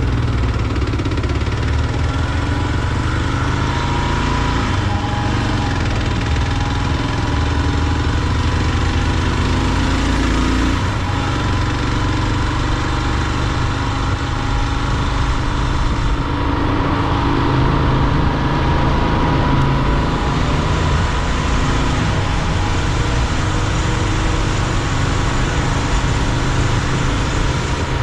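Motorcycle engine, likely the Kawasaki KLR 650's single-cylinder, running steadily while riding, with a steady rush of road noise; the tone shifts a little about halfway through.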